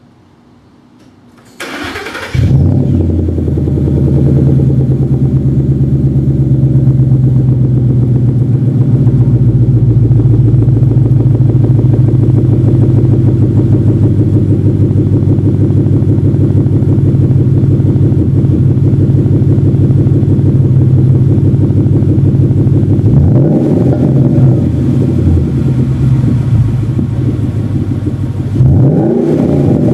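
A 2012 Ford Mustang GT's 5.0-litre V8 is cranked by the starter and fires about two seconds in, then settles into a loud, steady idle. Near the end the throttle is blipped twice, each rev rising and falling quickly.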